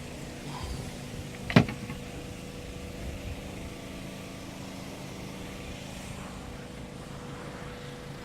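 A steady low mechanical hum, with a single sharp knock about a second and a half in.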